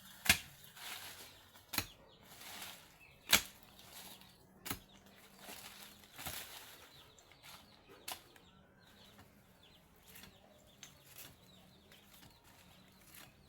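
A hand tool such as a machete or hoe striking again and again, about one blow every second and a half, with swishing and rustling between blows. After about eight seconds the blows stop and only softer rustling remains.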